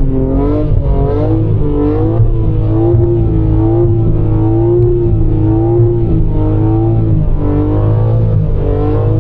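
Car engine held at high revs, its pitch wavering up and down repeatedly as in drifting, over a steady low engine drone.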